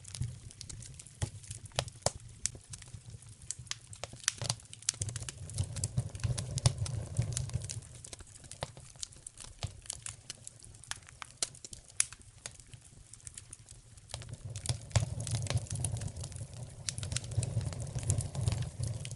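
Wood fire crackling and popping, sharp irregular snaps over a low rumble of flames that swells and fades.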